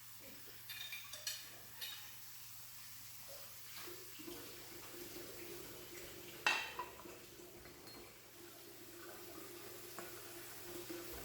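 Dishes and utensils clinking in a kitchen: a few light clicks, then one sharp ringing clink about halfway through, over a steady faint tone.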